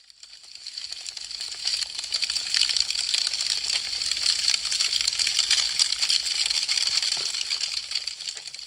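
Burning wood crackling: a dense, fast run of small pops and snaps over a soft hiss. It fades in over the first couple of seconds and fades away near the end.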